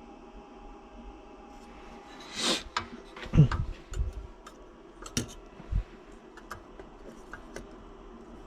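Tools and small metal parts being handled on a workbench: a short rush of noise, then a run of clinks and knocks with a few heavier thuds.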